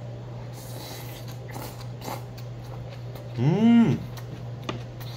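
A man chewing a mouthful of bibimbap, with small wet mouth clicks. About three and a half seconds in comes a short hummed "mmm" of enjoyment that rises and falls in pitch, the loudest sound. A steady low electrical hum lies underneath.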